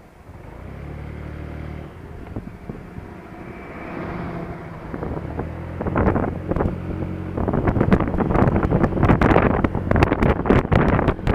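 Honda Dio scooter's engine pulling away and picking up speed. Wind buffeting on the camera microphone grows from about halfway in until it is the loudest sound.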